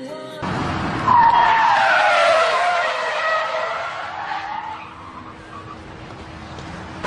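Vehicle tyres screeching in a long skid on pavement: a loud wavering squeal that starts about a second in, sags in pitch and rises again, then fades away after a few seconds.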